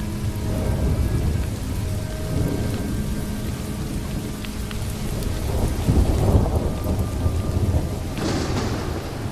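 Thunderstorm: steady heavy rain with a long rolling rumble of thunder about six seconds in and a gusting hiss of rain near the end. Soft sustained music notes sit underneath early on and fade out about halfway through.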